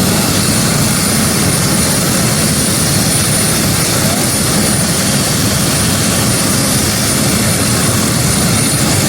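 Steady, loud vehicle noise: an even rushing roar with a faint high whine held throughout.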